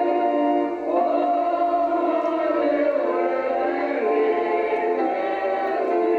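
A group of voices singing together, holding long notes.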